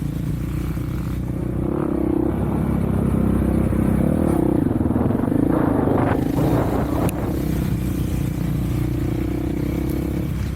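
Off-road vehicle engine running under way, its pitch steady apart from a dip and rise about halfway through as the throttle changes, louder in the first half. A burst of rattling and a sharp knock come about two-thirds of the way in.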